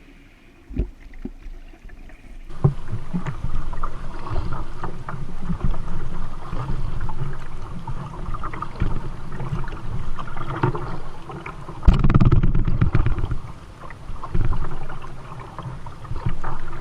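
Kayak being paddled on a river: water splashing and sloshing, with irregular knocks of the paddle and gear against the hull. The sound picks up about two and a half seconds in and is loudest around twelve seconds in.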